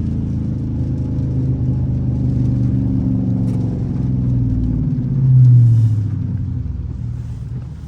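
Dodge Charger R/T's 5.7-litre HEMI V8 running while driving, a steady low engine drone. It swells briefly a little over five seconds in, then eases off.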